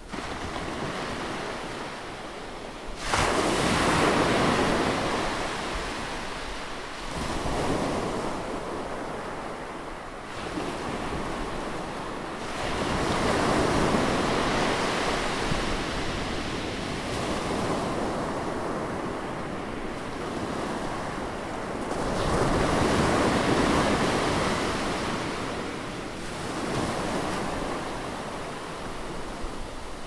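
Ocean surf breaking and washing over shoreline rocks, in swelling rushes every few seconds; the biggest crashes come about three seconds in and again about two-thirds of the way through.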